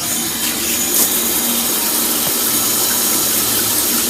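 Water spraying from a newly fitted shower head, turned on to test it for leaks; a steady, loud rush starting suddenly right at the beginning.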